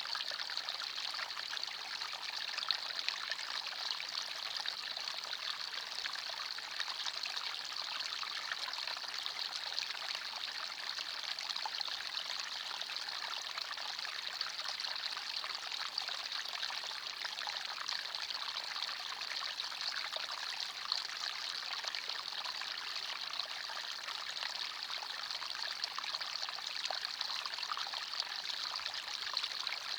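Small forest stream flowing steadily, water trickling and splashing over stones in an even, bright rush.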